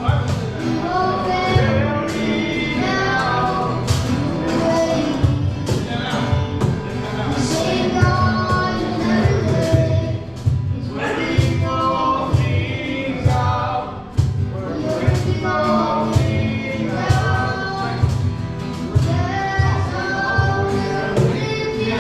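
Live worship band playing a song, with voices singing over a steady drum beat.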